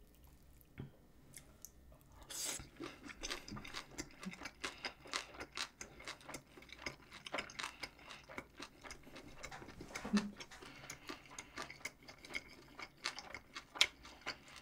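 A person chewing food, a rapid run of small clicks and crunches from about two seconds in, with a brief low hum about ten seconds in.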